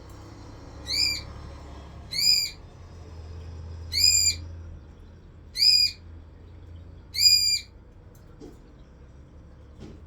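Pet parrot calling loudly five times, about once every one and a half seconds. Each call is a short note that rises and then levels off.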